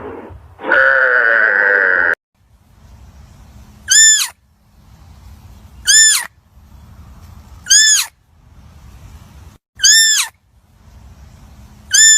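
A cow mooing, ending about two seconds in; then five short, high animal calls, each rising and falling in pitch, repeating about every two seconds.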